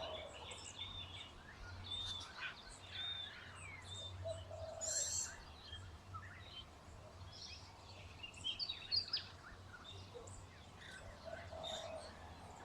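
Birds calling: many short, high chirps and warbles, with a few lower hoot-like calls now and then.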